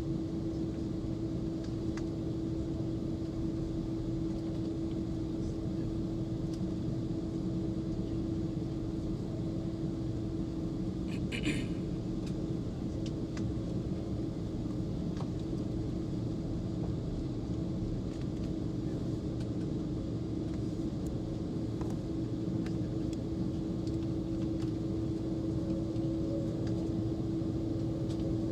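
Steady engine and air hum heard inside the cabin of an Airbus A330 on the ground before takeoff, with one constant low tone and no rise in power. A brief high ring sounds about eleven seconds in.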